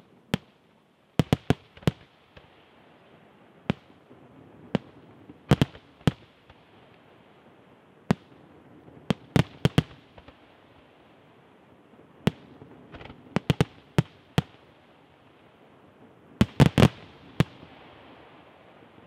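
Aerial firework shells bursting overhead: a string of sharp bangs at irregular intervals, some in quick clusters, the densest cluster near the end, over a steady rushing noise between them.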